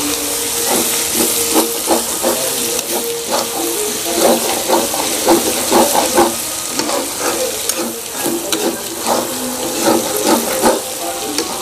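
Spiced minced chicken skin sizzling in an iron kadhai. A metal spatula stirs it, scraping and knocking against the pan many times.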